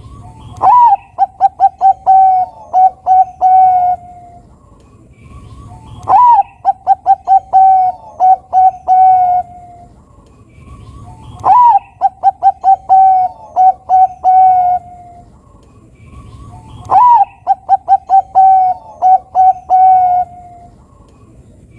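Zebra dove (perkutut) of the Bangkok song strain singing loudly. Four song phrases come about five and a half seconds apart. Each opens with a rising note and runs into a quick series of short coos, ending on a longer one.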